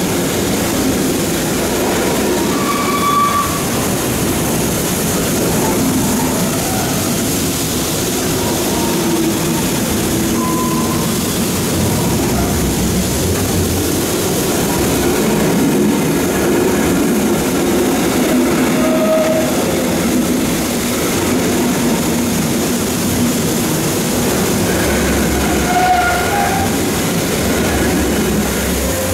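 Train moving along the track, a steady loud rumble with brief high squeals of wheels on the rails here and there.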